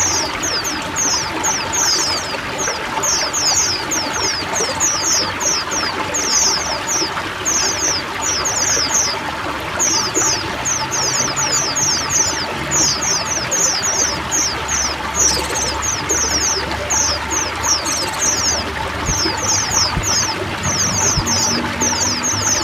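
Running water trickling and pouring steadily under a chorus of many white-eyes (pleci) singing, with rapid high chirps in dense overlapping runs throughout.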